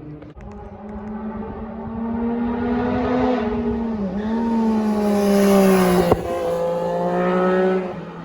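A performance vehicle's engine accelerating hard past on a mountain road, revving up, shifting about four seconds in, then climbing again. There is a sharp crack at its loudest point before it pulls away.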